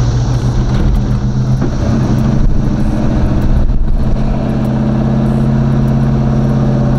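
Stock Chevrolet small-block V8 of a box-body Chevy Caprice running under way, heard from inside the cabin. Its steady low drone shifts in note between about two and four seconds in, then holds steady.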